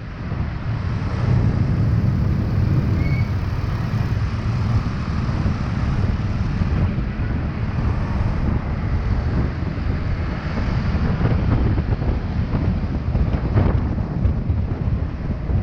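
Steady wind rumble on the microphone of a moving motorcycle, with vehicle noise underneath.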